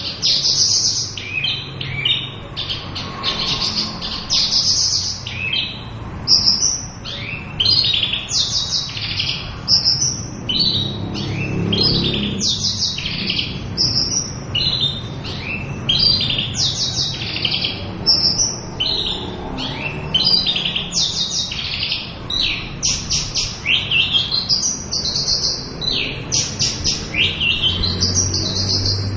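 Javan bush lark (Mirafra javanica) singing a continuous, fast, varied song of short high chirps, trills and sweeping notes without pause. This is the full-phrased song that bird keepers call gacor full isian.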